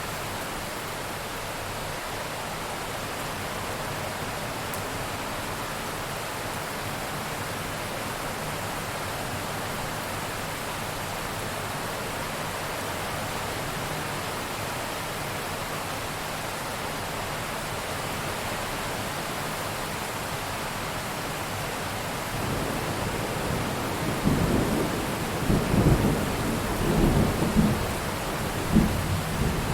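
Steady heavy rain hissing, with a thunderclap rolling in about three-quarters of the way through: a low rumble that breaks into several loud cracks and booms near the end.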